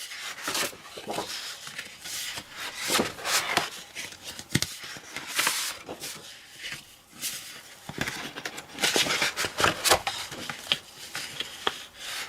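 Sheets of designer paper being handled and flipped through, with irregular rustles and light taps of paper and card.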